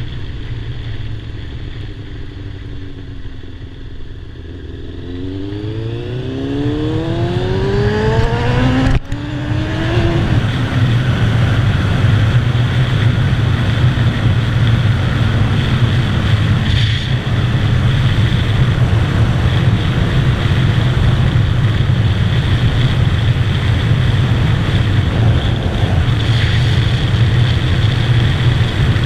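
2007 Kawasaki ZZR600's inline-four engine accelerating hard, its pitch climbing from about five seconds in, with a brief break at a gear change about nine seconds in. It then runs at a steady highway speed under a loud, even rush of wind.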